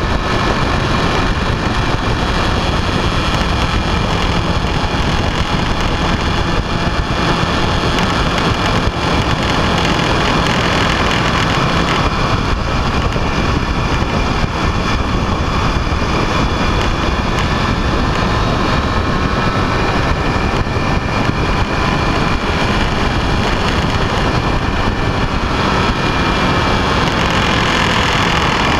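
A vehicle on the move: loud, steady wind and road rush, with faint engine tones that drift slightly in pitch.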